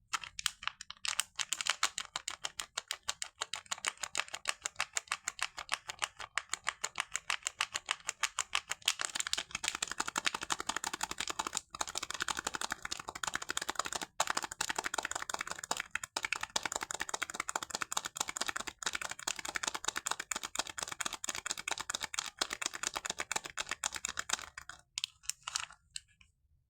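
A fast, even run of crisp clicks, many a second, from soap being handled, with a few brief breaks; it stops about a second before the end.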